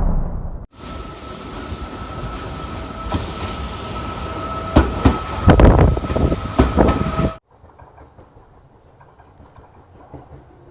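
Train running on rails: a rattling clatter with a steady whine and several loud knocks, which cuts off abruptly about seven seconds in and leaves a faint low rumble.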